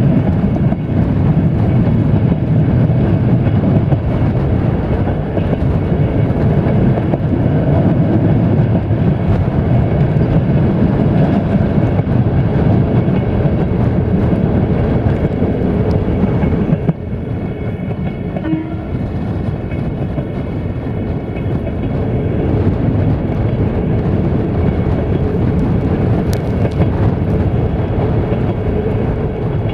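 A passenger train running at speed, heard from an open window of a moving carriage: a steady rumble of wheels on the rails with air rushing past. The noise drops suddenly about seventeen seconds in, then builds back up.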